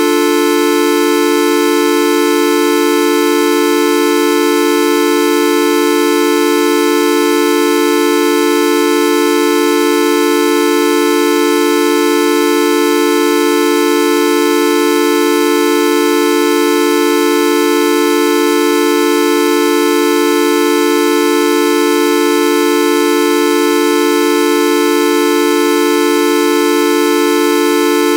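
The Videoup V1.2 sound effect held as one steady, unchanging tone with many overtones, strongest in the low-middle range.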